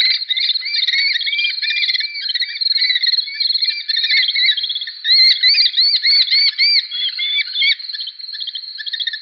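Red-footed falcons calling: a fast, chattering series of short, shrill notes that rise and fall, repeated without pause. The calls overlap, so several birds are calling at once.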